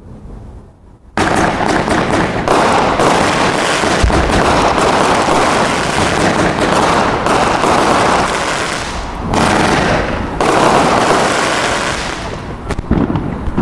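Aerial fireworks bursting into crackling stars: a loud, dense rattle of rapid small pops starts suddenly about a second in. It eases briefly about nine seconds in, then crackles again.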